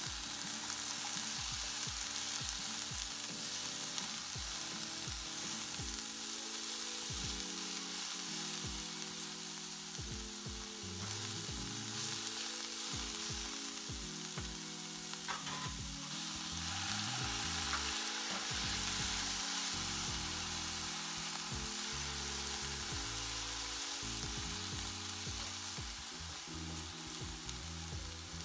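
Shredded cabbage and onion sizzling steadily in a nonstick frying pan, stirred and turned with a silicone spatula.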